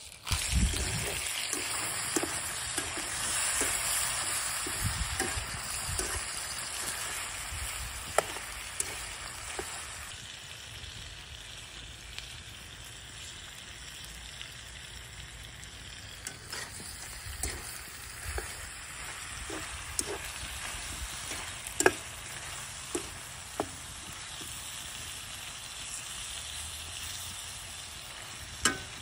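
Meat and onion sizzling in a hot steel wok. The sizzle is stronger for the first ten seconds or so, then softer, and is broken by short clicks and scrapes of a metal slotted spatula stirring against the pan.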